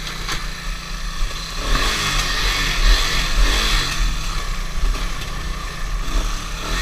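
Small off-road vehicle engine running in mud, revving up about a second and a half in and dropping back after about three seconds.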